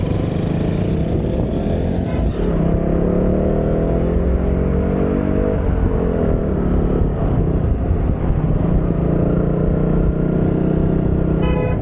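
Motorcycle engine running under way with a steady low wind rumble; the engine pitch climbs for about three seconds, then drops away and settles. A short high tone sounds near the end.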